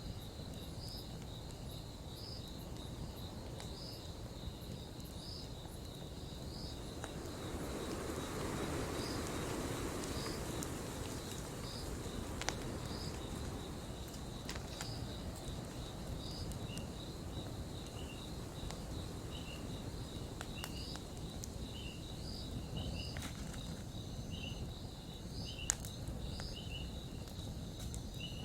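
Crickets chirping steadily at about one chirp a second, with a second, lower-pitched cricket joining about halfway through. A few sharp pops from a crackling campfire and a soft rush of noise that swells and fades in the first half.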